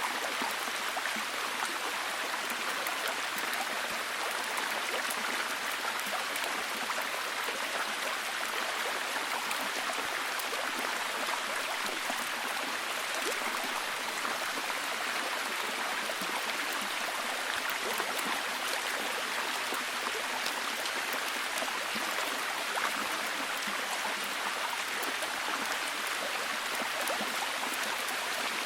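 Steady, even rain falling heavily: a dense hiss with many fine drop ticks and no change in intensity.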